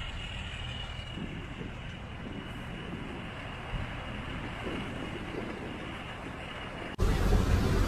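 Low vehicle rumble with wind noise on the microphone. About seven seconds in, the sound cuts abruptly to a louder, deeper engine rumble.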